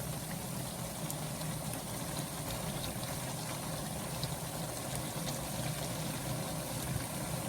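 Pancit noodles cooking in a pan of sauce and broth, sizzling and simmering steadily over a low, even hum.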